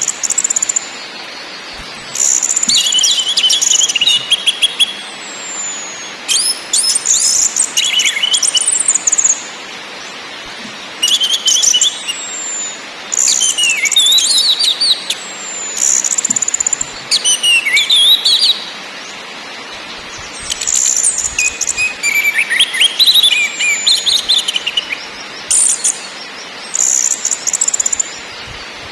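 Orange-headed thrush singing loud phrases of rapid, rattling notes, sliding whistles and trills, about a dozen short bursts with brief pauses between them.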